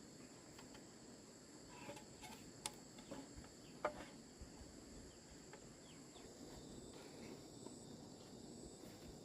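Faint, steady insect chirring, with a few light clicks about three and four seconds in.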